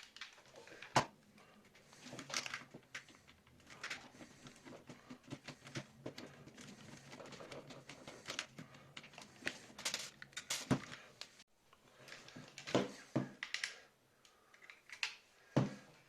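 Plastic SteelSeries Siberia V2 headset being handled and flexed at its earcup mounts: irregular small clicks, crackles and rustles, with a sharp click about a second in.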